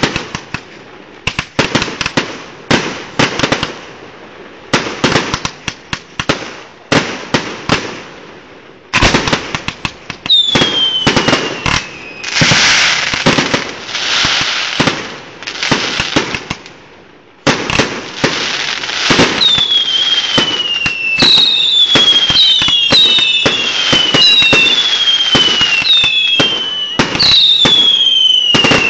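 Fireworks going off: a run of separate sharp bangs, then from about ten seconds in whistling fireworks, their whistles falling in pitch, over dense crackling. In the second half the bangs run together into a continuous barrage with many falling whistles.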